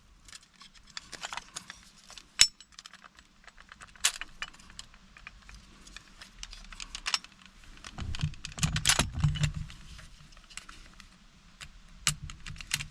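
Small clicks, taps and jingling as plastic trim tools pry the PATS immobilizer ring off an old ignition lock cylinder. A sharp snap comes about two and a half seconds in, and a denser stretch of scraping and handling noise follows later.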